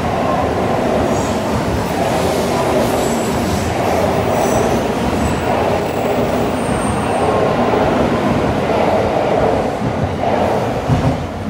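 N700 series Shinkansen pulling out of the station, its cars passing close by: a steady rush of wheels and running gear on the rails, with faint brief high squeals. The last car goes by near the end.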